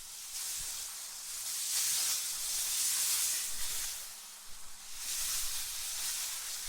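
Synthetic wind ambience: a high hissing rush that swells and eases in gusts, loudest about two to three seconds in and again near the end.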